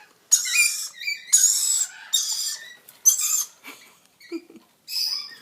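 Lorikeets screeching: five loud, high-pitched calls about a second apart, with a lull before the last. These are the begging calls of young birds hassling their parents for food.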